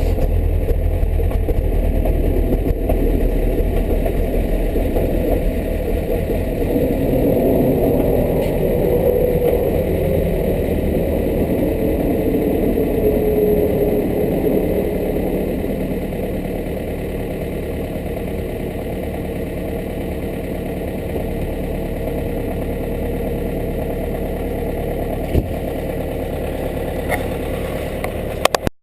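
2005 Volkswagen Passat TDI diesel engine idling steadily just after a cold start at about 10 °F; its loudness eases a little about halfway through. A single small knock comes near the end.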